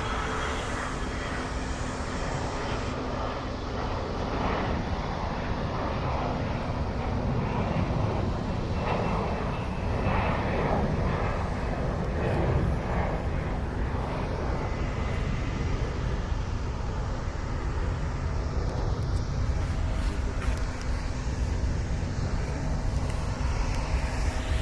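Jet airliner engines running at an airport, a steady low rumble that holds at an even level throughout.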